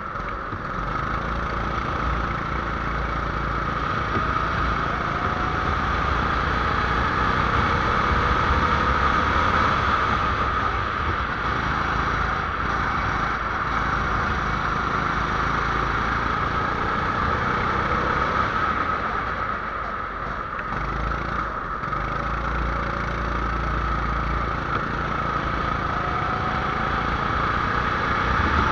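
A 270cc engine running steadily under a dense wash of noise, its pitch gliding up and down a little.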